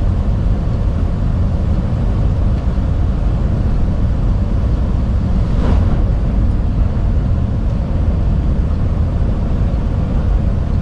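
Steady low drone of a truck's engine and tyres on the road, heard from inside the cab while driving.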